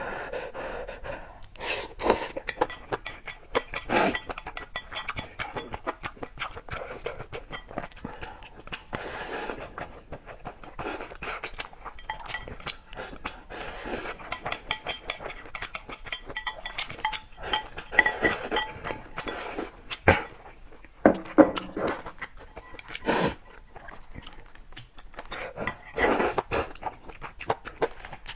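Close-miked eating sounds: utensils clicking and clinking against a bowl, mixed with chewing, in a dense run of short, sharp clicks.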